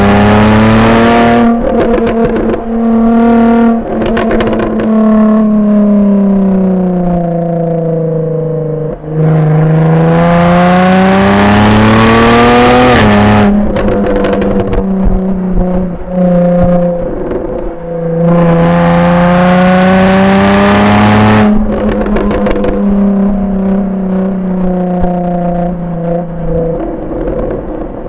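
Jaguar F-Type V6 S's supercharged 3.0-litre V6 through its factory exhaust in Dynamic mode, accelerating hard three times with the pitch rising on each pull. After each lift-off the exhaust pops and crackles on the overrun.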